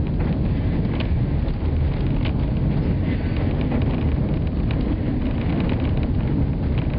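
Passenger train coach on the narrow-gauge White Pass and Yukon line rolling along the track: a steady low rumble with a few faint irregular clicks.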